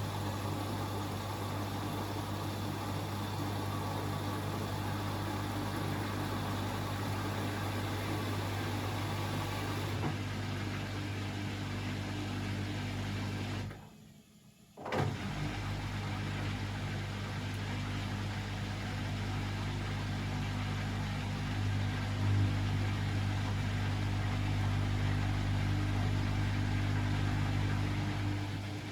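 Beko WML 71433 NP washing machine's drum motor running with a steady hum. About halfway through it stops for about a second and starts again, the pause typical of the drum changing direction during washing.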